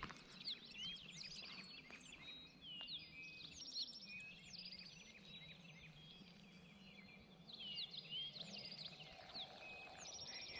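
Faint chorus of several songbirds: many short chirps, whistles and trills overlapping throughout.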